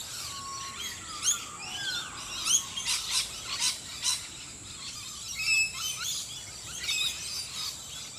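A morning chorus of several birds in a Brisbane park: a busy overlapping mix of chirps, trills and short whistled notes, with a steady thin high tone underneath.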